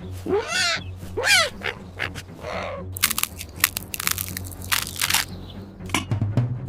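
Cartoon animal-like squeals: two sliding, wavering cries in the first second and a half and a shorter one after, then a quick rattle of clicks and knocks for about two seconds, over a low steady hum.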